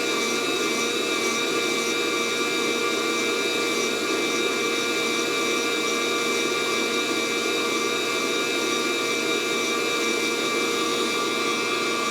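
Fresh Roast SR 800 hot-air coffee roaster's fan running steadily, a constant blowing hum with a few steady tones. No first-crack pops come from the beans yet.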